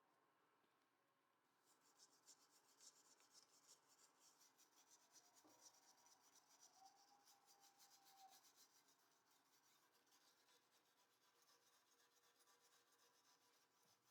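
Near silence, with a faint, rapid scratching that starts about two seconds in.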